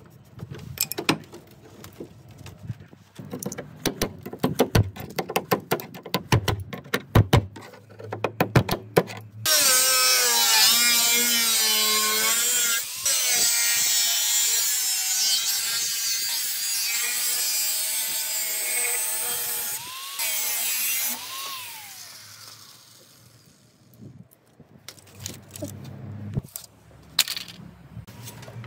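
A power tool cutting or grinding the rusty sheet metal of a vehicle's quarter panel, a loud hissing whine whose pitch wavers with load, for about eleven seconds in the middle, then winding down. Before it comes a run of sharp, quick knocks and taps, and a few more come near the end.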